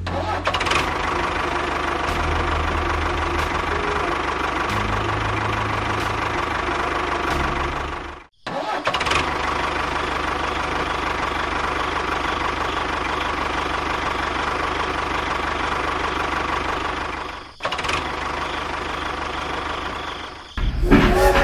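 A small motor running steadily with a whirring hum. It breaks off briefly about eight seconds in and dips again later on.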